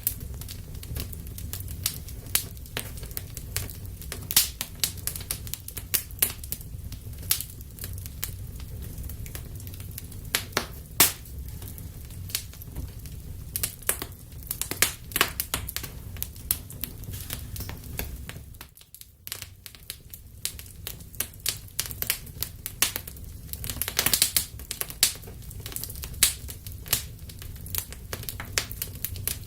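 Wood fire burning in a fireplace: irregular sharp pops and snaps of crackling wood over a steady low rumble of the flames. The sound briefly drops away about two-thirds of the way through.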